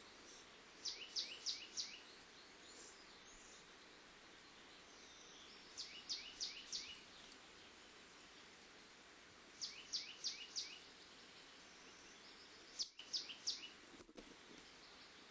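A small songbird singing a short phrase of four or five quick, high, sweeping notes. The phrase comes four times, roughly every four seconds, over a steady faint hiss.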